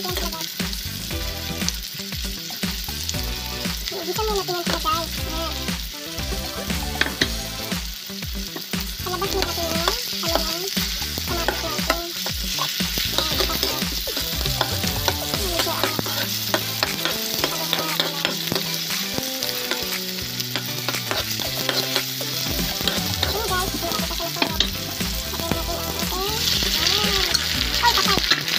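Onion, garlic and tomato sizzling in hot oil in a nonstick wok while a spatula stirs and scrapes them, with many small clicks of the spatula against the pan. The sizzle grows louder near the end as canned sardines in tomato sauce go into the hot oil.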